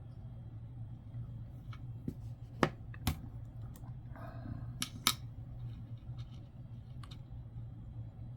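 Nickels being handled on a work surface: several sharp clicks, four louder ones in two close pairs about two seconds apart, among fainter ticks over a steady low hum.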